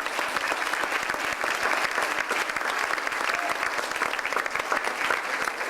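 Audience applauding: a steady patter of many people clapping.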